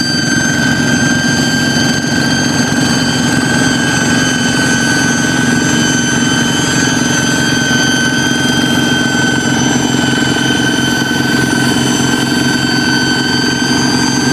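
Kubota hand tractor's single-cylinder diesel engine running steadily, with a loud, steady high whistle on top that gives it a jet-like sound.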